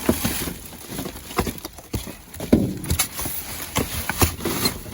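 Irregular hard knocks and clatter, about ten in under five seconds, as items are handled and shifted around in a dumpster.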